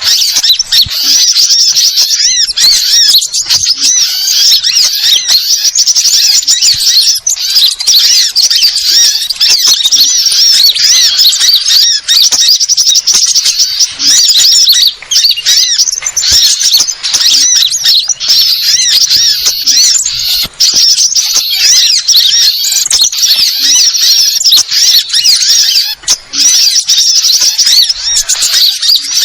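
Sunbirds chattering: a dense, unbroken stream of rapid high-pitched twittering chirps, several birds overlapping, as used for bird-lure playback.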